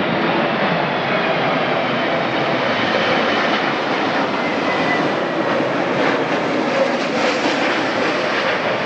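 Airliner's engines during a landing: a steady, loud rushing noise with a faint high whine about halfway through.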